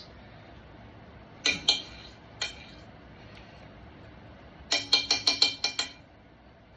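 A kitchen knife clinking against a hard container, each strike ringing briefly: two clinks about a second and a half in, another soon after, then a quick run of about seven clinks near the end.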